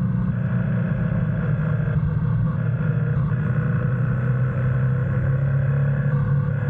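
GS motorcycle's engine running at a steady speed under way, a constant low drone with little change in pitch.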